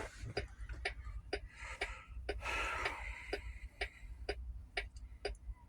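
A truck cab's turn-signal or hazard flasher ticking steadily, about two clicks a second, over a low steady rumble, with a brief soft rustle a couple of seconds in.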